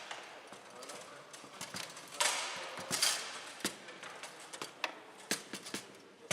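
Foosball in play on a Bonzini table: a run of sharp clacks and knocks as the ball is struck by the figures and hits the table, with louder clatters about two and three seconds in.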